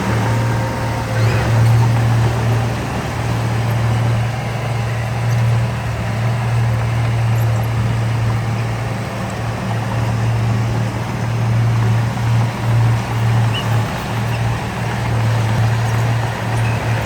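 Heavy diesel engine of earthmoving machinery running steadily with a deep drone, its loudness wavering unevenly in the last few seconds.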